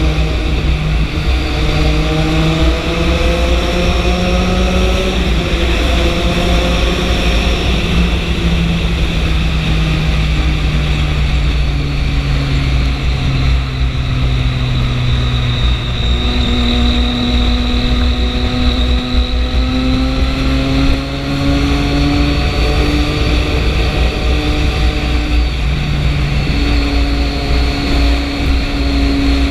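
Triumph 675 inline-three motorcycle engine running under way, its pitch slowly rising and falling as the speed changes, over a steady low rumble.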